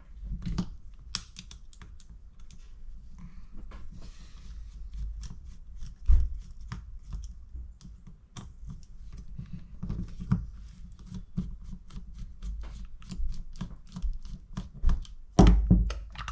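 Screwdriver and small metal parts clicking and tapping against a dirt bike carburetor, irregular and quick, as the float bowl screws are worked loose and the bowl comes off, with a couple of heavier knocks about six seconds in and near the end.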